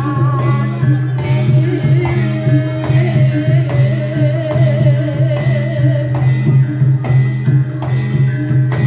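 Live traditional Javanese music accompanying a reog / kuda lumping show: a singer holds a long wavering note over a steady drum beat and a low sustained drone.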